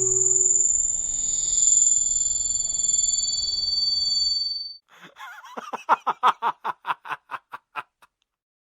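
Fireworks: two high, steady whistles for about four and a half seconds, then a rapid pulsing, about five pulses a second, that cuts off suddenly.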